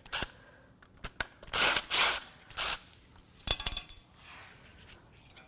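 Metal clicks and short rasping scrapes, several in a row, as the dipstick and its tube are worked loose from a 5.7L Vortec V8 engine block.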